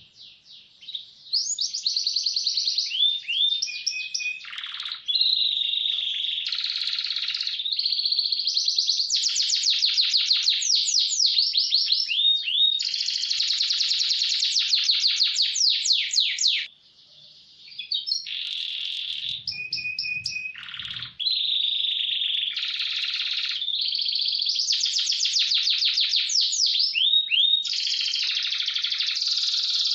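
Canary singing a fast, almost continuous song of rapid rolling trills and chirped phrases. It pauses briefly near the start and again a little past halfway.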